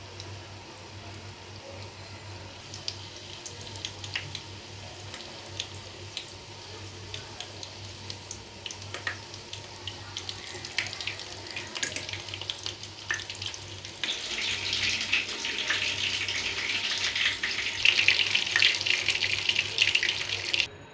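Chicken tenders frying in hot oil: a steady sizzle with scattered crackles and pops. It grows louder about two-thirds of the way through, then cuts off suddenly.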